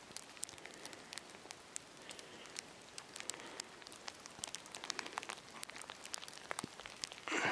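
Falling snow ticking faintly and irregularly, over a quiet hiss, with a brief louder rustle near the end.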